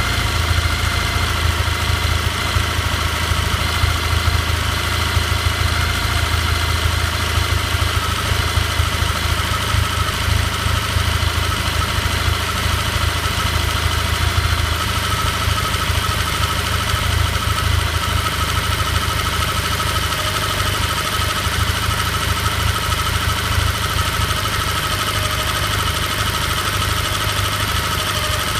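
Vehicle engine idling steadily with a knock in it.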